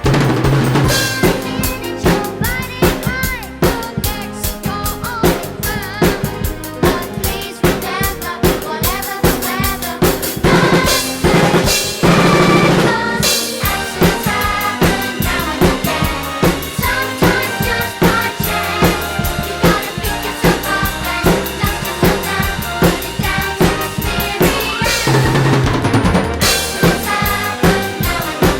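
Acoustic drum kit played along to a recorded children's song, with a steady beat of bass drum and snare strikes, rimshots and cymbals over the backing track's melody. Drum fills come about a second in, around 11 to 13 seconds in, and around 25 to 26 seconds in.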